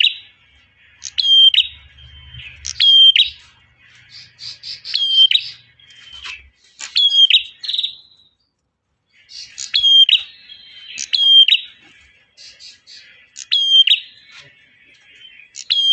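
Male prenjak singing a loud call: repeated high phrases of quick chirps, each ending in a sharp bent note, roughly every second and a half, with a short break about eight seconds in. It is the male's call to a female, used as a lure call for trapping small birds.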